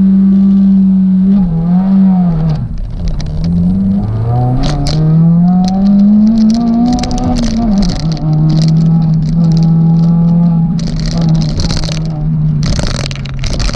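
Suzuki Swift Sport ZC32S's 1.6-litre four-cylinder engine under hard acceleration. Its pitch holds steady, dips briefly about two and a half seconds in, climbs for several seconds and drops at a gear change to a lower steady note, with scattered clicks and rattles over it.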